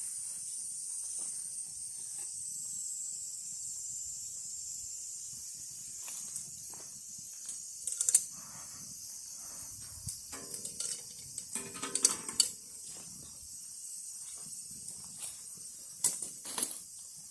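Campfire cooking sounds: a steady high hiss with scattered clicks, knocks and clatters, the sharpest a few seconds apart near the middle and near the end.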